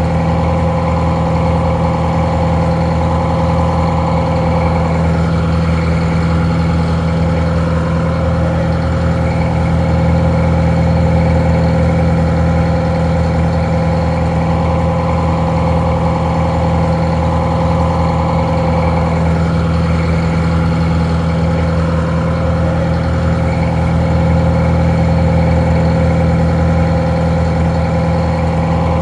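Detroit Diesel 4-71 two-stroke, four-cylinder diesel engine idling steadily: an even, slightly muffled drone that keeps a constant pitch.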